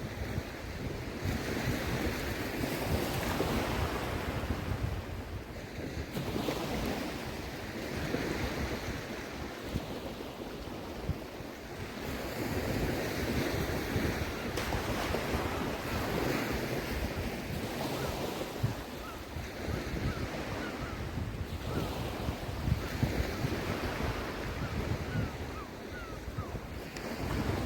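Small waves breaking and washing up the shore of a calm sea, swelling and falling every few seconds, with wind rumbling on the microphone.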